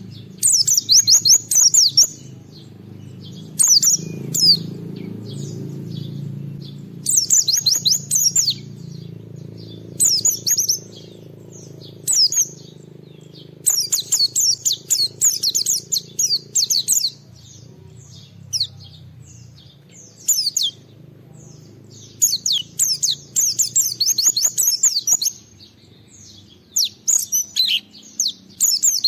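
White-eye (pleci) singing in bursts of rapid, high, sliding chirps, each burst one to three seconds long with short pauses between, about nine bursts in all. A steady low hum runs underneath.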